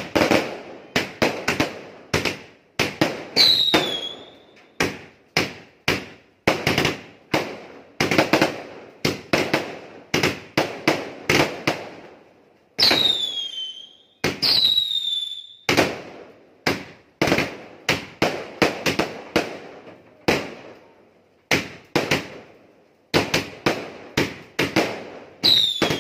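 A 100-shot fireworks cake firing in quick succession: sharp launch pops and aerial bursts, about one to two a second, with a high falling whistle now and then.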